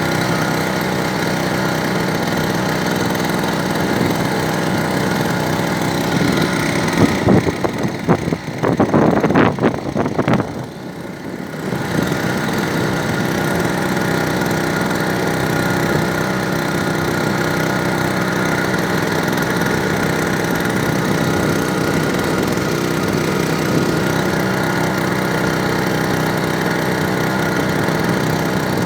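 Small grass-cutter engine driving a small boat, running steadily. About seven seconds in there is a louder, rougher stretch lasting some four seconds, then the sound is briefly quieter before the steady running returns.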